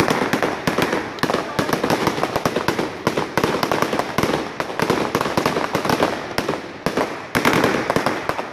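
Fireworks going off in a rapid, unbroken volley of crackles and sharp bangs, many a second.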